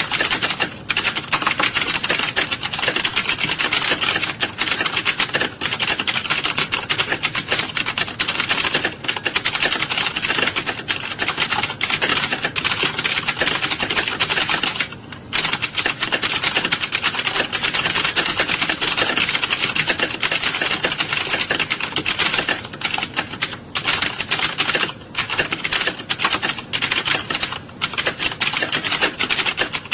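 Many computer keyboards being typed on at once in a typing class: a dense, continuous clatter of keystrokes, with a brief lull about fifteen seconds in.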